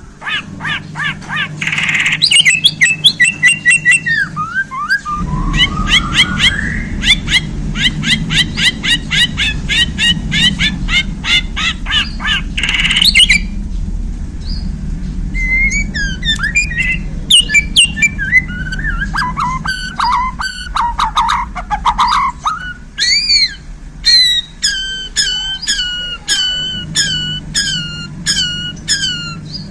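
White-rumped shama (murai batu) singing: long runs of fast, sharp repeated notes, then after a brief pause a mix of rising and falling whistles, ending in a series of evenly spaced descending notes. A low rumble runs underneath most of it.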